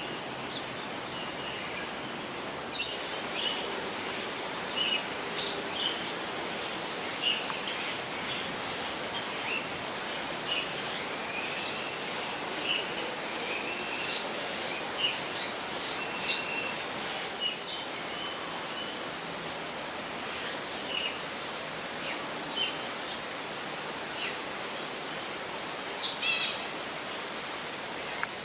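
Short, high bird chirps, about one every second or so, over a steady background hiss.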